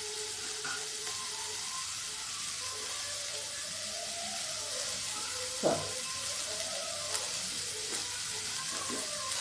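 Chopped onions and tomatoes frying in oil in an aluminium pressure cooker, a steady sizzle. A single knock comes a little past halfway through.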